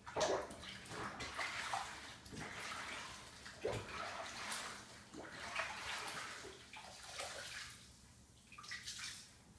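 Running tap water splashing unevenly as hands and a caulk-smeared sponge are rinsed under it, easing off near the end.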